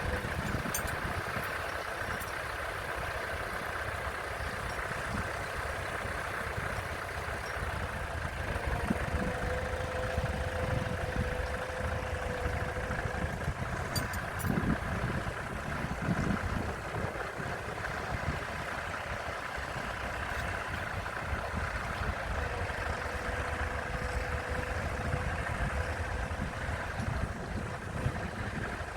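Tractor engine running steadily, with a droning tone that fades in and out a few times.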